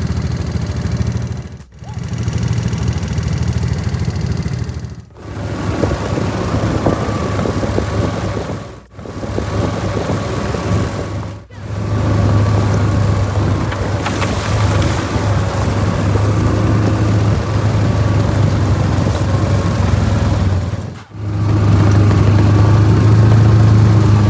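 Off-road vehicle engine running steadily under way with a deep, even hum. The sound cuts out sharply and briefly about five times.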